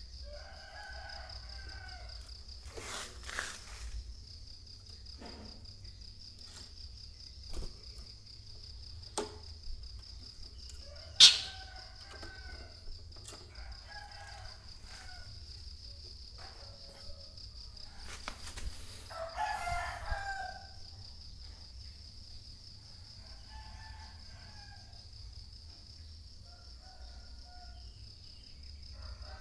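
Roosters crowing several times in the background over a steady high-pitched insect drone, with scattered knocks and one sharp loud click about eleven seconds in.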